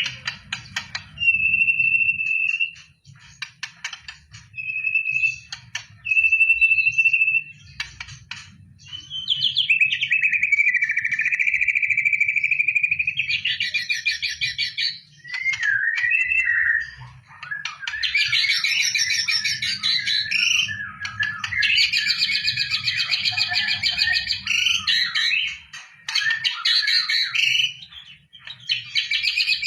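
White-rumped shama singing. It starts with separate long, clear whistled notes, then from about halfway changes to rapid, varied phrases and fast trills.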